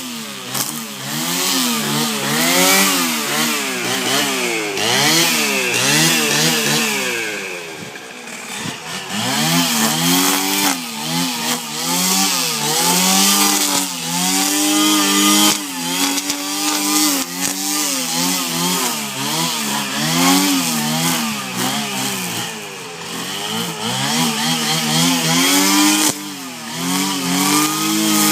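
Stihl FS 420 brush cutter's two-stroke engine running, revved up and down over and over so its pitch keeps rising and falling, with a steadier high-speed stretch in the middle.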